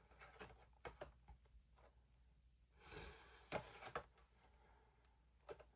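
Near silence with faint, scattered small clicks and taps from handling a plastic fashion doll and her tiny accessories, and a soft swell of noise about three seconds in.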